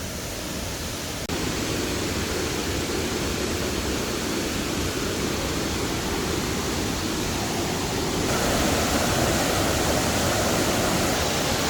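Steady rush of a waterfall's cascades in full flow after heavy rain. The sound turns louder about a second in and fuller again after about eight seconds.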